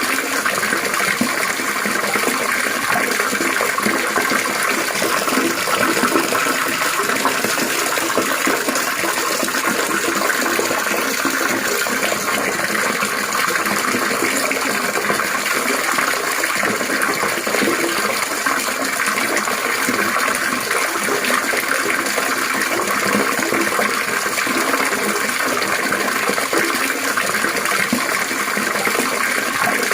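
Water trickling and splashing steadily, without pause or change.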